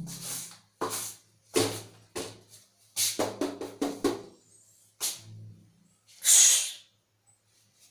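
Angry cat hissing and spitting in short, irregularly spaced bursts, the loudest and longest hiss about six seconds in, over a faint low steady hum.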